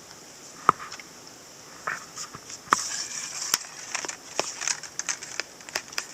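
Footsteps through brush, with irregular snapping and crackling of twigs and branches, over a steady high-pitched hiss.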